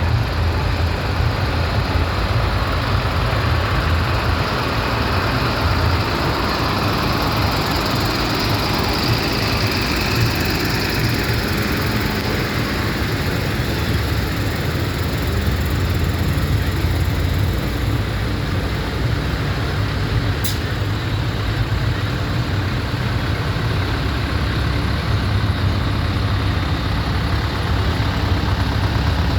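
Tractor engines running at low speed in a passing parade, a steady low rumble, with one brief high tick about two-thirds of the way through.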